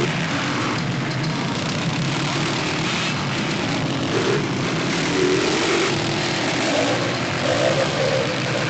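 Motocross motorcycle engines running, a steady mechanical din with a few wavering rises and falls in pitch.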